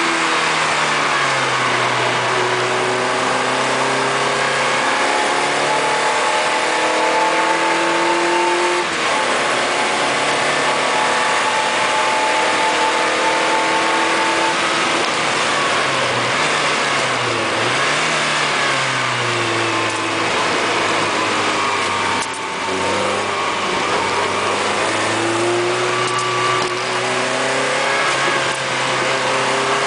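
Lotus Elise Sport 160's Rover K-series four-cylinder engine heard from inside the cabin, its pitch climbing through each gear and dropping back at the gear changes and lifts off the throttle, short-shifted well below high revs. A steady hiss of tyres and spray on the wet track runs underneath.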